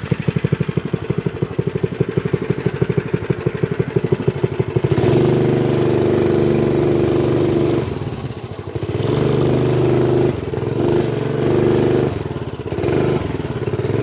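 Honda GX120 single-cylinder four-stroke engine on a minibike idling with slow, even firing pulses, then revved up about five seconds in and held at higher speed, easing off and picking up again three times.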